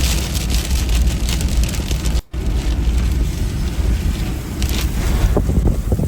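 Strong storm wind buffeting the microphone in a loud, steady rush heavy in the low end, broken by a brief cut about two seconds in.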